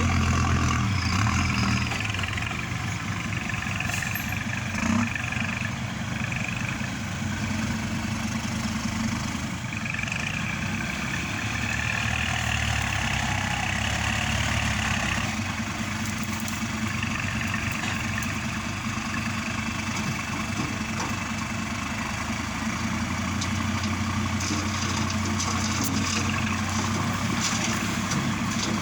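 Diesel engine of a Kubota tractor running steadily while pushing soil, its note growing louder for a few seconds at a time, about a third of the way in and again near the end.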